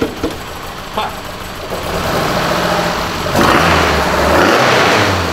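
Lancia Fulvia Zagato 1600's freshly rebuilt narrow-angle V4 engine running, just after its first start. From about three and a half seconds in to near the end a louder rushing noise joins it.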